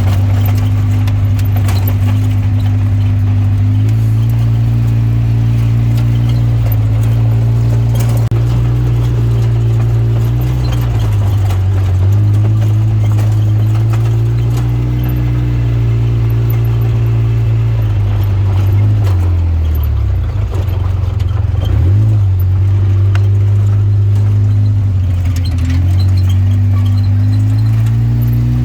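Off-road vehicle engine running close by at changing throttle. Its pitch steps up and down several times and drops low briefly about twenty seconds in before picking up again.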